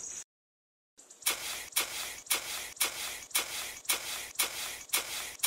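Small hand trowel scraping and scooping sand in a run of gritty strokes, about two a second, starting about a second in after a short burst and a moment of silence.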